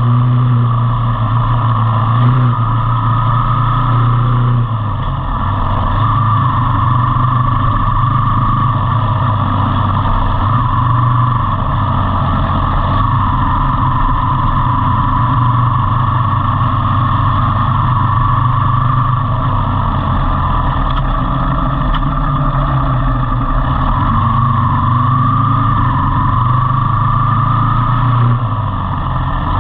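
Motor vehicle engine running steadily on the road, with a continuous hum and a steady rush of road and wind noise. The engine note dips briefly about five seconds in and again near the end.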